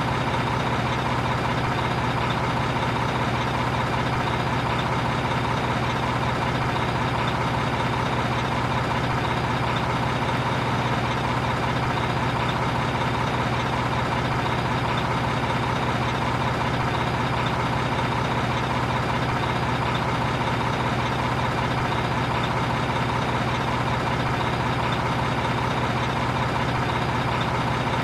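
A heavy engine idling steadily, an even drone that does not change in pitch or level.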